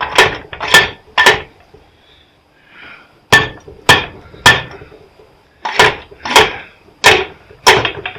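Hammer blows knocking at a scrapped welder's parts to pop the tops off, about two strikes a second in three groups: three, a pause, three more, a pause, then about five. Each strike has a short ring.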